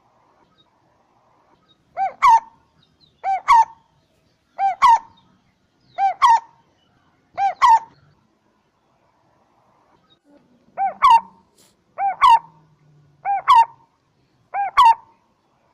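Spotted dove calling: a short two-note call, each note arching up and down in pitch, given nine times about every second and a half, with a pause of about three seconds after the fifth.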